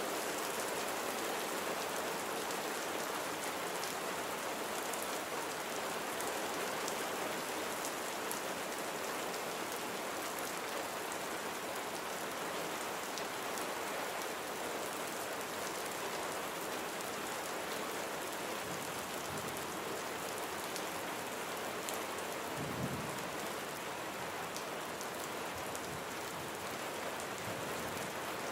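Steady rain falling on surfaces, an even hiss of drops. A brief low rumble comes about three-quarters of the way through.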